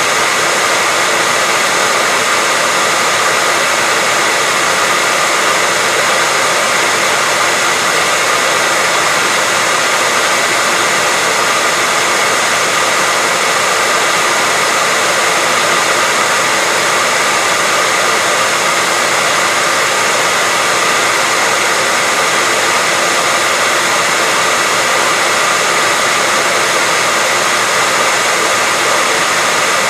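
Hair dryer running continuously: a steady rushing of air with a faint even whine in it.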